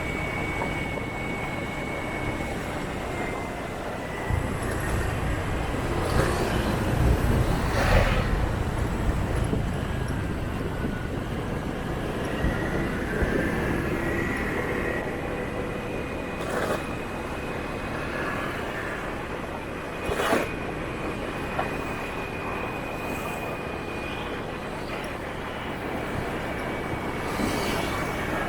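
City motorbike traffic heard from a moving motorbike: a steady mix of engines and road noise, with a thin high tone held through much of it. A heavier low rumble swells about four to nine seconds in, and a few sharp knocks stand out.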